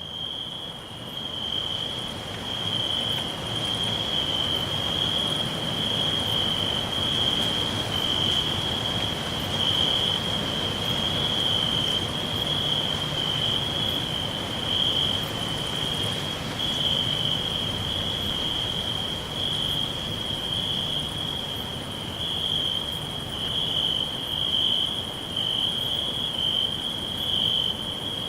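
Crickets chirping in a continuous, steady high-pitched trill over a faint background hiss, fading in over the first few seconds.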